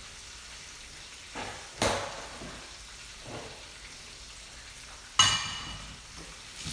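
Pretzel-crumb-coated chicken frying in hot oil with a steady sizzle. Two sharp knocks come from a utensil or cookware, the second, louder one about five seconds in ringing like metal.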